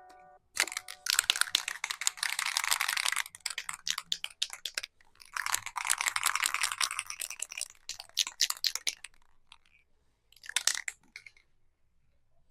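Three bursts of crackly, scratchy noise from cleaning work on a motocross bike, with scattered clicks between. The first two bursts each last about two seconds; the last, near the end, is under a second.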